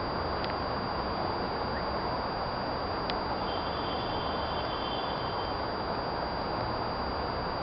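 Steady outdoor background noise with no distinct roll of thunder, and a faint, high, thin tone about halfway through.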